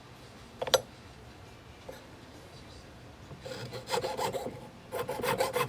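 Jeweler's saw cutting metal in fast, short strokes from about three and a half seconds in, the blade cutting against wood. A single sharp click comes a little under a second in.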